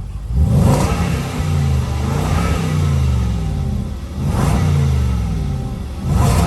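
Jaguar F-Pace SVR's supercharged 5.0-litre V8 free-revving at standstill with the loud exhaust mode selected. Three short throttle blips, each dropping back in pitch towards idle, kept moderate because the engine is brand new.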